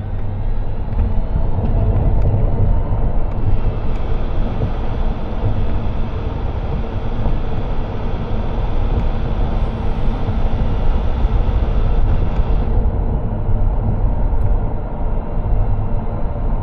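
A car driving along city streets, with steady low road and engine rumble. A brighter hiss joins in from about three and a half to thirteen seconds in.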